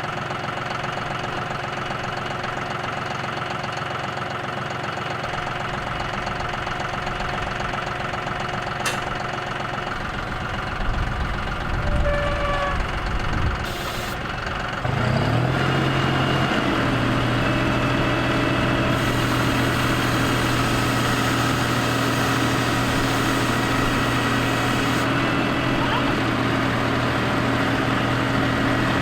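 An engine running steadily. About halfway through there are a few knocks, the pitch glides, and it runs on louder at a new, steady pitch.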